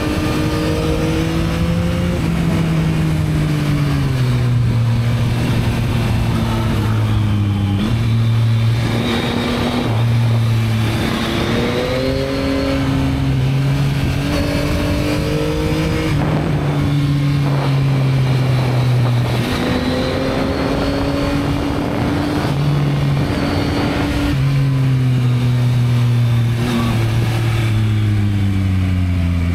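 Yamaha MT-09's 890 cc three-cylinder engine on its stock exhaust, under way: the engine note climbs and falls again and again, with sudden drops in pitch as the rider shifts gear.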